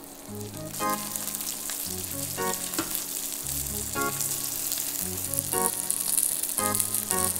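Pork-wrapped thick fried tofu rolls sizzling in hot oil in a frying pan, the sizzle growing louder, over light background music.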